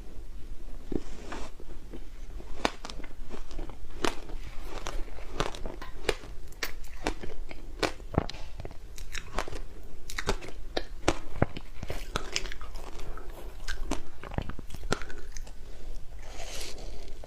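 Ice being bitten and crunched in the mouth: a steady run of sharp, irregular crunches, about two or three a second, with a short hiss near the end.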